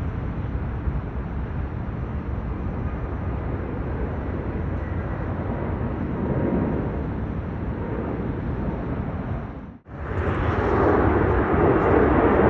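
Jet airliner engine noise, a steady rumbling roar. It cuts out abruptly just under ten seconds in, then a louder jet comes in and keeps growing.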